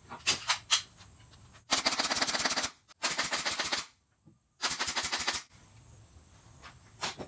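A few single sharp clicks, then three bursts of rapid, even mechanical clicking, each lasting about a second.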